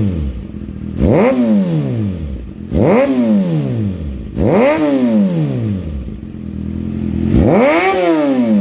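Kawasaki ZX-6R inline-four with an M4 GP19 slip-on exhaust, warm after its cold start, revved in four quick throttle blips that each rise sharply and fall back to idle; the last one, near the end, goes highest and holds longest.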